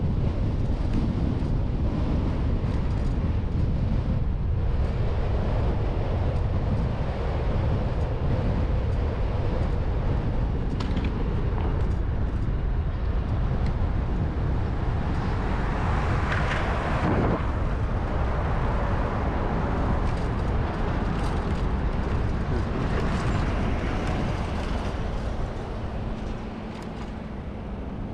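Wind rumbling on the microphone while riding a bicycle, with road traffic passing. One vehicle swells up and fades away about sixteen seconds in, and the rumble eases a little near the end.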